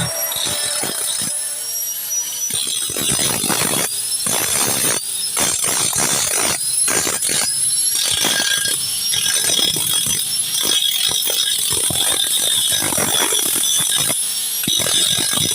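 Hand-tool work on the motorcycle frame: a run of quick, irregular scraping strokes, a few each second, with faint high rising squeaks above them.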